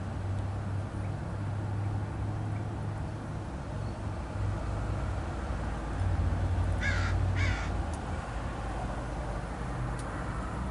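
A bird gives two short, harsh calls in quick succession, about half a second apart, over a steady low background hum.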